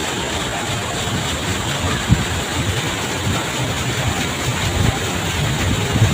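Waterfall making a steady rushing noise, with a low rumble and a single short knock about two seconds in.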